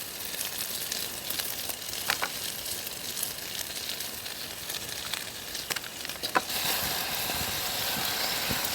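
Curry frying in a pan, a steady sizzle with scattered crackles and pops, growing louder and denser about two-thirds of the way through.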